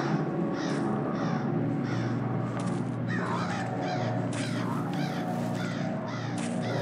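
Crows cawing over and over, several birds calling at once in a harsh, overlapping chorus. A low steady drone runs underneath.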